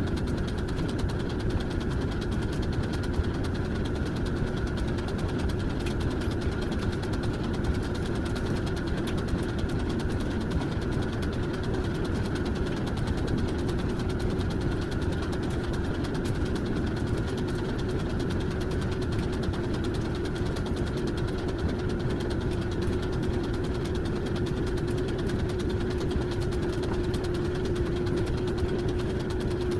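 An engine or motor running steadily, with a constant hum that holds the same pitch throughout.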